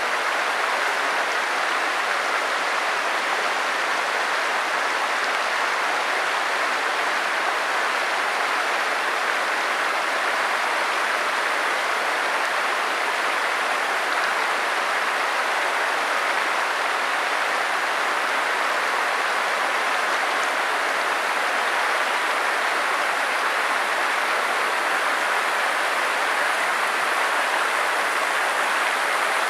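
Stream water running steadily: an even, unbroken rushing hiss with no breaks or changes.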